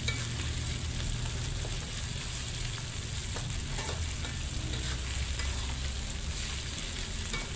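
Chili, garlic and shallot spice paste sizzling in hot oil in an aluminium wok while a metal spatula stirs and scrapes through it, being sautéed until fully cooked and fragrant. A low steady rumble runs underneath.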